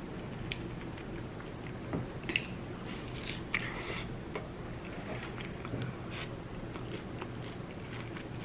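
A person biting and chewing a crunchy tortilla close to the microphone: scattered faint crisp crunches, thickest about two to four seconds in.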